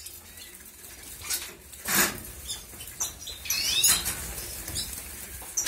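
Small finches bathing in a shallow water dish: wings fluttering and water splashing in short flurries, the loudest about two seconds in and again around four seconds, with a few brief high chirps.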